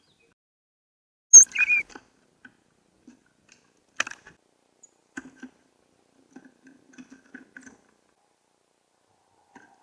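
Tufted titmouse at a Bird Buddy feeder: one short, high call about a second and a half in, a sharp tap at four seconds, then a run of soft pecking and scuffling taps on the feeder.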